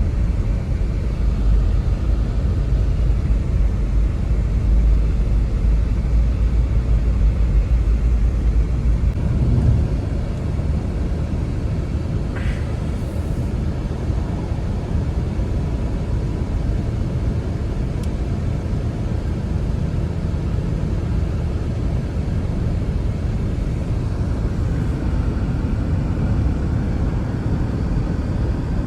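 Steady low rumble of strong wind, heavier for the first nine or ten seconds and then easing slightly.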